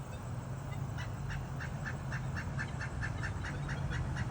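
Pileated woodpecker giving its rapid series call, a quick run of short nasal notes at about five a second that starts about a second in, over a steady low hum.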